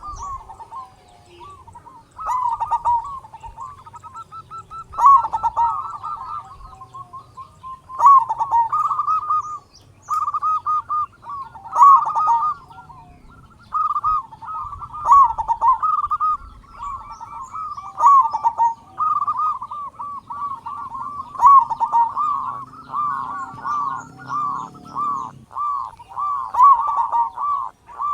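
Zebra dove (perkutut) cooing: repeated phrases of quick, rolling coo notes, a new phrase starting every two to three seconds.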